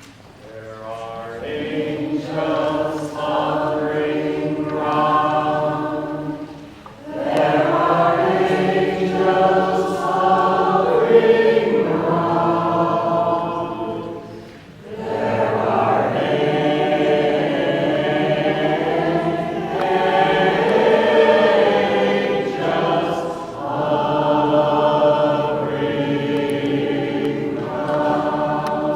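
Small choir singing together in harmony, in long held phrases with short breaks between them.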